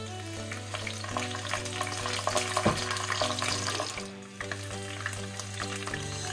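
Sliced onions frying in oil in a non-stick frying pan, sizzling and crackling as a wooden spatula stirs a spoonful of paste in. The crackle is busiest in the middle and drops out briefly about four seconds in. Background music with held notes plays throughout.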